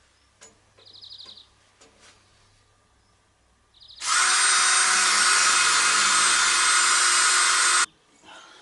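Power drill: two brief blips of the trigger, then a steady run of about four seconds that stops abruptly.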